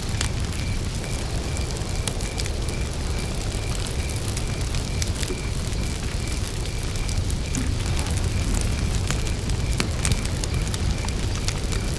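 Campfire burning, with scattered crackles and pops over a low steady rumble of the flames. A cricket chirps in an even, rapid pulse that fades about halfway through.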